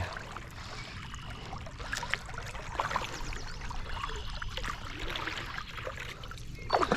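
Kayak paddling on a river: the paddle blades dipping and splashing, with water trickling and dripping off them between strokes.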